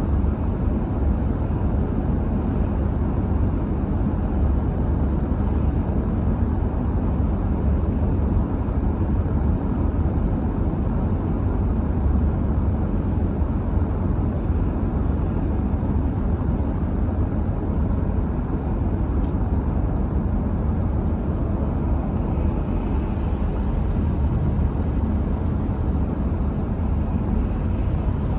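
Car driving at a steady speed: an even, low rumble of road and engine noise that does not change.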